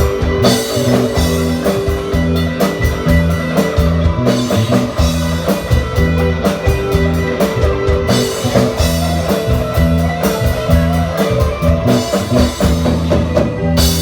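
Band music with electric guitar, bass and drum kit playing a steady beat, ending on a held chord near the end.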